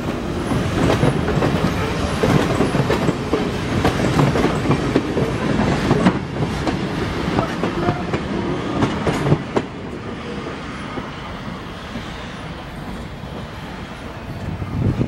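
Train running on jointed track: a steady rumble of wheels on rail, broken by sharp clicks and rattles. It drops noticeably quieter about ten seconds in.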